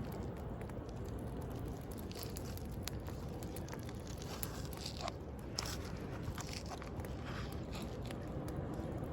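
Wood bonfire crackling, with sharp pops scattered through and thickest in the middle, over a steady low wash of sea waves.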